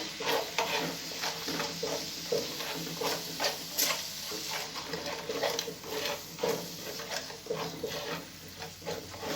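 A utensil stirring seafood filling in a frying pan, scraping and knocking against the pan a few times a second over steady sizzling.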